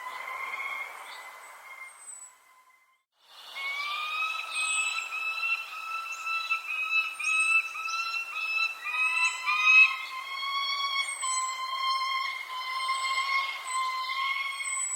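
Birds chirping with short, high, falling notes over a steady whistling tone with overtones. About two and a half seconds in, all sound cuts out briefly. It then resumes as a run of wavering whistled notes that overlap one another.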